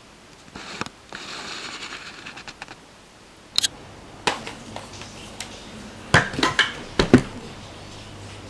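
Rustling for about two seconds, then a string of sharp clicks and knocks as small objects are handled and set down.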